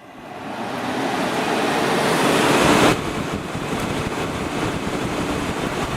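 2002 Whirlpool 5,000 BTU window air conditioner's fan running on fan-only, high speed, pushing a steady rush of air through the coils. The rushing builds over the first three seconds as the fan comes up to speed, drops suddenly in level about three seconds in, then runs steady.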